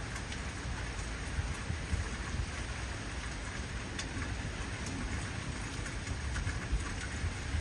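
Heavy rain falling steadily, with scattered drop ticks over an even hiss and a low rumble beneath.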